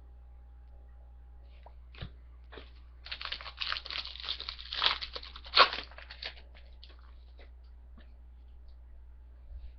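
Foil wrapper of a trading-card pack crinkling and tearing as it is ripped open: about three seconds of crackling, loudest near the end, after a single click.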